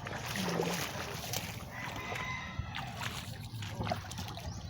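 Seashore sounds: water sloshing and splashing against the shore, with scattered small knocks.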